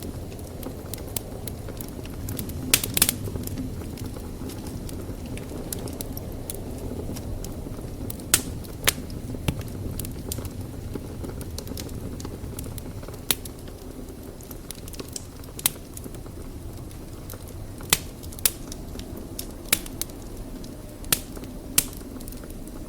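Wood fire burning in a fireplace: a steady low rumble of flames with sharp, irregular crackles and pops, about a dozen in all.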